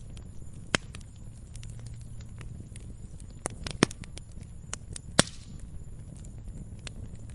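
Log fire burning: a low steady rumble with scattered sharp crackles and pops, three of them much louder, the loudest just after five seconds in.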